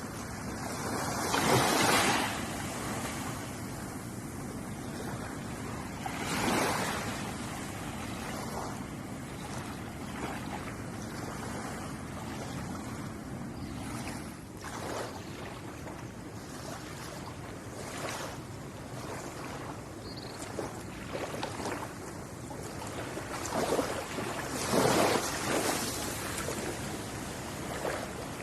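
Ocean waves breaking on a shore: a steady wash of surf, with louder breaks about two seconds in, around six seconds and again near the end.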